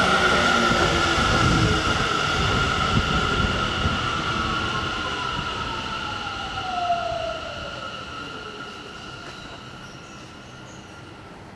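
Electric commuter train slowing to a stop at the platform: the traction motor whine falls steadily in pitch while a steady high squeal rings above it, and the sound fades gradually as the train comes to rest.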